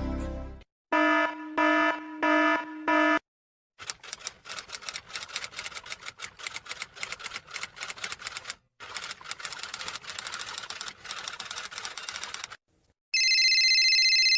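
A run of sound effects: four short buzzing beeps, then several seconds of fast, dense clicking like typing, broken by one short pause. A steady high electronic tone starts about a second before the end.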